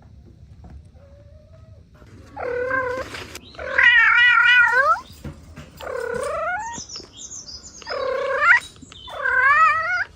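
Cat meowing five times in a row, each meow about a second long, some with a wavering, drawn-out pitch.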